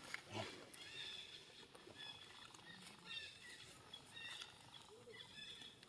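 Faint animal calls: short high-pitched chirps and squeaks repeating on and off, with a brief lower call right at the start.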